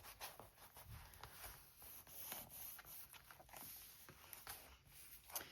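Faint rubbing and light handling of paper: fingers pressing a freshly glued paper strip down onto a journal page so it sticks.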